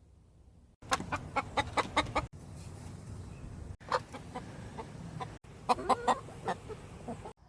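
Chickens clucking in quick runs of short calls, in several short stretches broken by sudden cuts.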